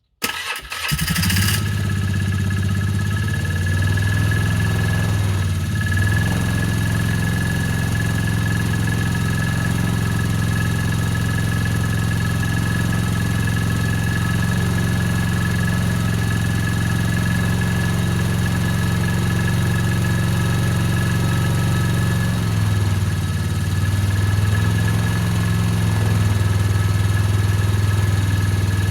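Vehicle engine cold-started: it fires within the first second and settles into a steady idle. The idle sags briefly about six seconds in and again around twenty-two seconds, then runs a little louder.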